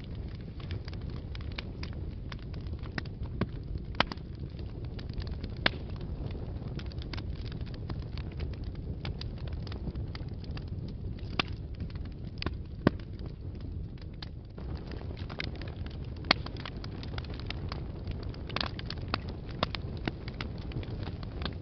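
Fire burning in a fireplace: a steady low rumble of flames with frequent sharp crackles and pops, a few of them louder snaps.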